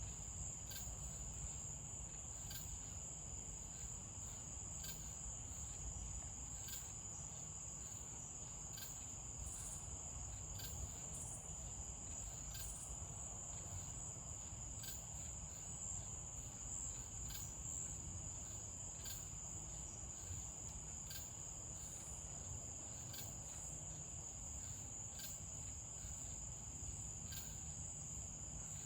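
Night insects trilling: one steady high-pitched trill that does not let up, with a short tick recurring about once a second.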